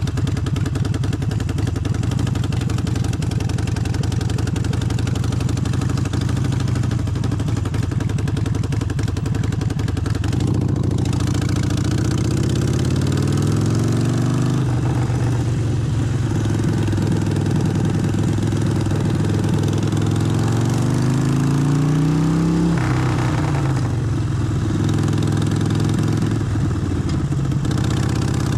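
Harley-Davidson Forty-Eight's air-cooled 1200 V-twin running under a rider, with wind noise on the microphone. It holds a steady note at first; about ten seconds in it pulls up in pitch, drops back at a gear change, then climbs again for several seconds before dropping once more.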